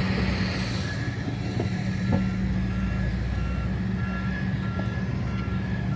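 A heavy vehicle's reversing alarm beeping steadily, a little under two beeps a second, starting about a second in, over the steady low running of a diesel engine.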